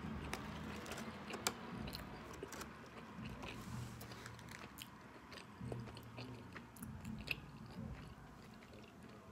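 A person chewing a mouthful of fast food close to the microphone, with small mouth clicks and smacks scattered throughout.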